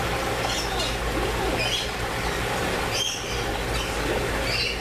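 Small birds chirping in short, high calls repeated every second or so, over a steady low hum and faint background chatter.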